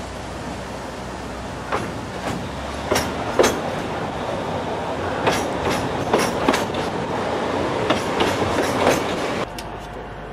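Ōigawa Railway Ikawa Line train running, heard from inside the passenger car: a steady rolling noise of wheels on rail, with irregular clacks and knocks from the rail joints. The running noise turns quieter about nine and a half seconds in.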